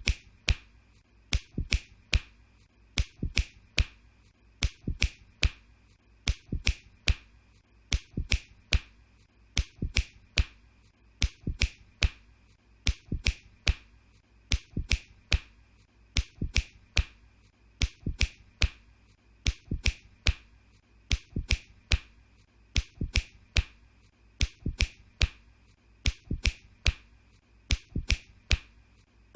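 Fingers snapping over and over, sharp dry clicks at about two a second, many coming in quick pairs.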